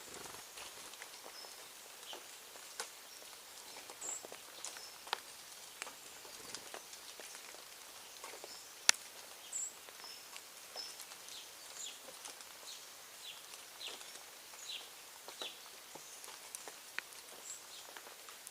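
Birds at a feeding spot: short, high chirps here and there over many scattered small taps and clicks, with one sharp louder click about nine seconds in.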